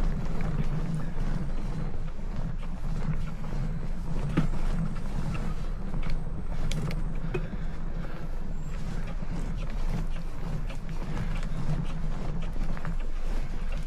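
Bicycle being ridden uphill: a steady low rumble with scattered small clicks and ticks.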